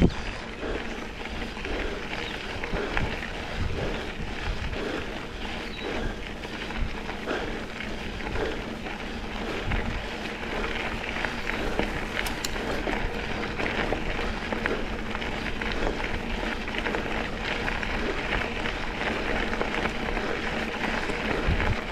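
Mountain bike riding on a gravel double track: a steady rush of tyre noise and wind on the microphone, with scattered small knocks and rattles from the bike over the bumps.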